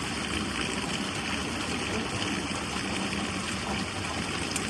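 Steady running water, a continuous even rush with no breaks.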